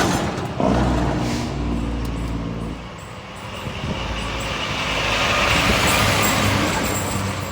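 Fire engine driving past: a low diesel rumble comes in sharply about half a second in and fades by about three seconds, then a rush of road noise swells and falls away as traffic passes.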